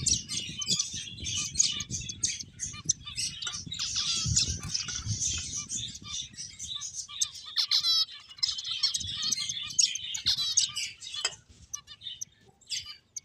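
Several finches chirping, many short high calls overlapping, with a quick rattling trill about eight seconds in and a low rumble of background noise underneath. The chirping thins out near the end.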